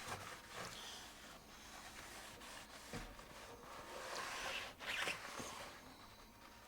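Faint rasping scrubbing of a rag on a kitchen cabinet's face frame, in uneven strokes, loudest from about four to five seconds in.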